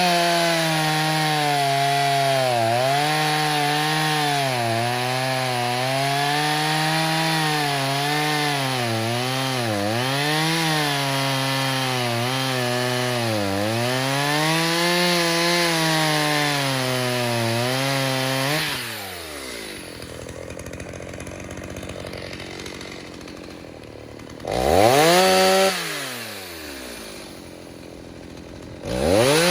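Stihl 029 two-stroke chainsaw, freshly rebuilt with a 45 mm piston, cutting through wood at full throttle, its pitch dipping and recovering as it is pushed into the cut. About 19 seconds in it drops back to idle, gets a short blip of throttle, then revs up again near the end.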